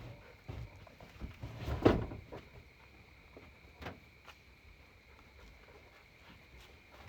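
A few scattered knocks and clunks of things being handled, the loudest a thump about two seconds in.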